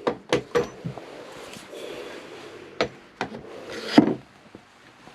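Wooden pieces being handled and pushed into place, knocking and rubbing together: a few sharp knocks, a stretch of scraping in the middle, and the loudest knock about four seconds in.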